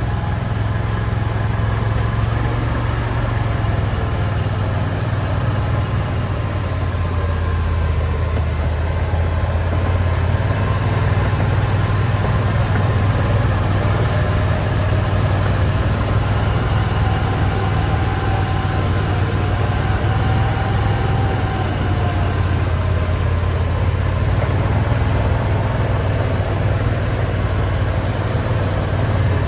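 Argo amphibious off-road vehicle's engine running steadily as it drives, a constant low hum.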